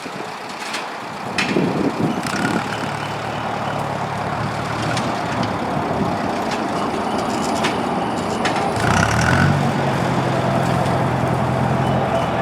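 Tractor engine running under load while pushing over trees, growing louder about nine seconds in, with a few sharp knocks.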